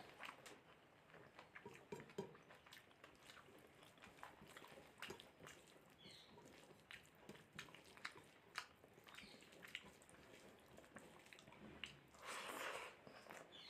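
Faint close-miked eating sounds of mutton curry and rice: chewing with scattered wet mouth clicks and smacks, and a longer, louder noisy sound about twelve seconds in.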